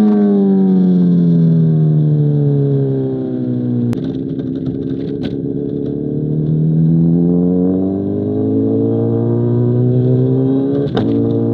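2005 Honda CBR1000RR's inline-four engine through an SC Project CR-T exhaust, revs falling off for about four seconds as the bike slows, then rising again briefly and dropping back. There is a sharp click about four seconds in and another near the end.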